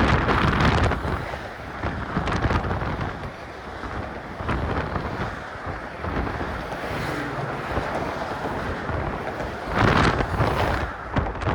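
Wind buffeting the phone's microphone in gusts, loudest at the start and again about ten seconds in, with a lower steady rumble between the gusts.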